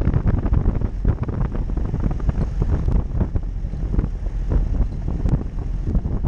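Off-road 4x4 driving over rough ground: low rumbling vehicle noise under wind buffeting on the microphone, with irregular knocks and jolts throughout.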